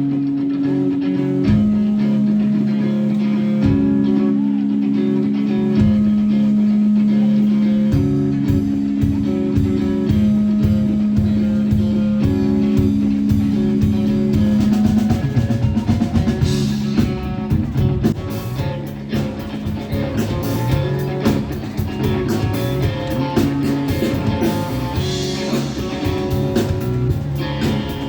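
Live band playing an instrumental passage: guitar holding long notes, with the drum kit settling into a steady beat about eight seconds in.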